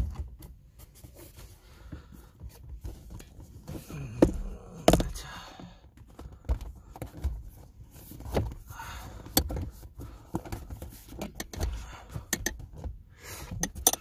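Scattered knocks, thumps and rustling as camping bedding and gear are handled and laid out inside a small car's cabin, the loudest thumps coming about four and five seconds in.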